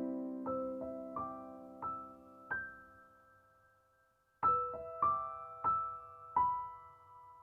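Gentle background piano music: single notes struck slowly one after another and fading out, a short silence a little past halfway, then a new phrase of notes begins.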